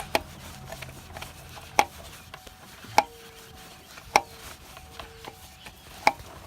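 Five sharp knocks or taps, about a second or two apart, over a faint steady background.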